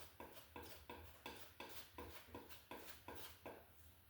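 Palette knife mixing oil paint on a palette: faint, even strokes about three a second as white is worked into a green to lighten it.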